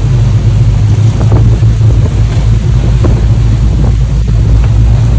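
Storm wind buffeting the microphone over the steady low drone of a boat's engines, with rough sea washing around the hull.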